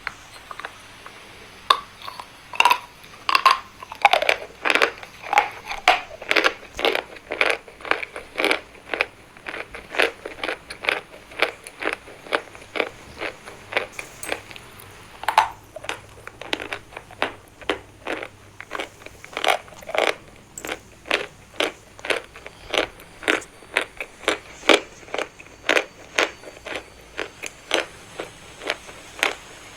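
Chalk being bitten and chewed close to the microphone: a steady run of dry, sharp crunches, about two or three a second.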